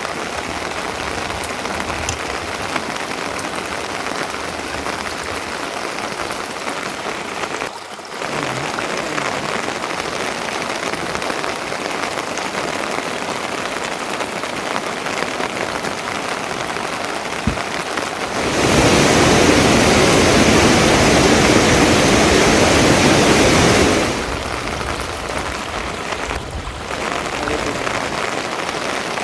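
Steady rain falling, growing heavier and louder for about five seconds past the middle, with two brief dips.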